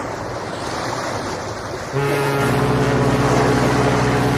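Train sound effect: a rushing, hissing noise, then about two seconds in a long, steady train horn blast that holds on.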